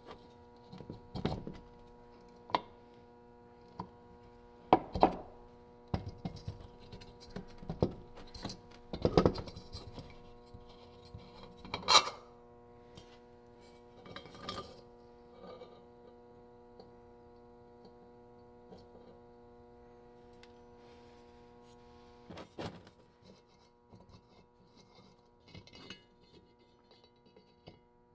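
Metal parts of an old Coleman lantern clinking and knocking as they are handled, in irregular single knocks and short clusters, the loudest about twelve seconds in. A steady hum runs underneath.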